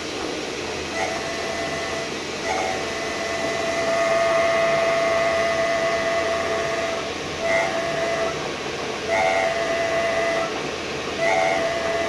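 A VW Touareg prop shaft section spinning in a lathe with a steady hiss, while its center bearing gives a whistling squeal that comes and goes in several spells, the longest about three seconds. The owner takes this bearing noise for the sound his car has been making.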